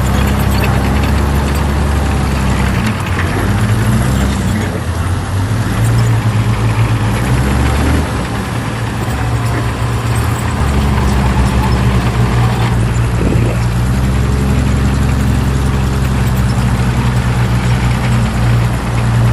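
Heavy diesel engine of earthmoving equipment running, its low note easing off and picking up again a couple of times.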